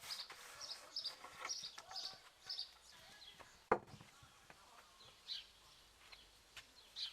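Small songbird chirping repeatedly in high short notes, about two a second at first, then fewer. A single sharp click or knock about halfway through is the loudest sound.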